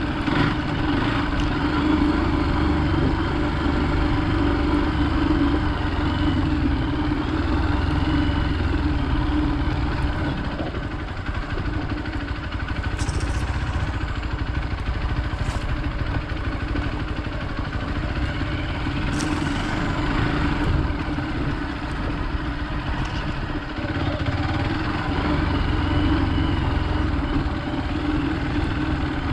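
Hero Xpulse 200 motorcycle's single-cylinder engine running steadily while being ridden, with a few sharp clicks in the middle.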